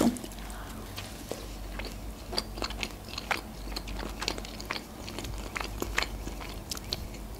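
A person chewing a mouthful of pizza close to the microphone: many soft, irregular wet clicks and smacks of the mouth.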